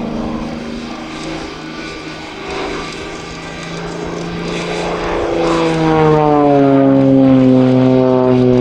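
Propeller aircraft engine of an Xtreme Air XA41 (Sbach 300), a 315 hp Lycoming AIO-580 with its propeller, running under power. About halfway through the engine note grows louder and drops in pitch, then holds steady.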